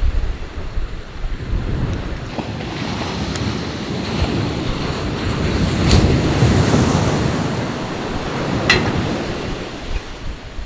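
Sea waves surging onto the shore, swelling to a peak midway and then easing off, with wind buffeting the microphone. A couple of sharp clicks cut through the surf.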